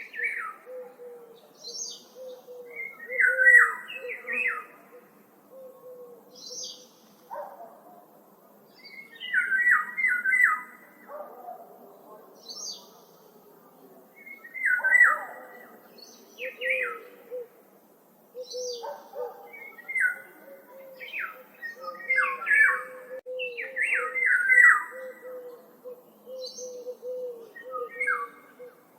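Several songbirds singing, short chirping phrases repeating every few seconds with some higher, thinner notes between them, over a faint steady low hum.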